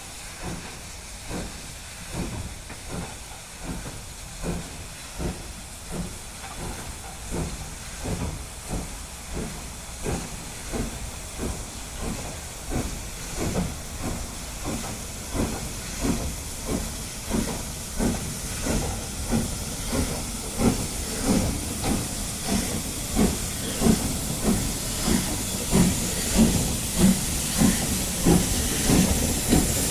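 Steam locomotive working, its exhaust chuffing in a steady rhythm of about one beat every three-quarters of a second, with a hiss of steam. The beats grow steadily louder as it draws nearer.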